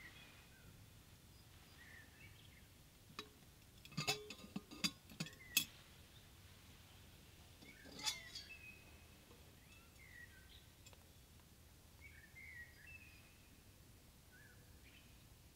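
Small birds chirping on and off, with a quick run of sharp clinks and knocks about four to six seconds in and one more about eight seconds in.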